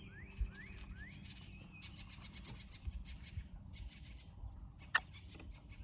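Insects buzzing in a steady high drone, with a few quick rising chirps in the first two seconds and a single sharp click about five seconds in.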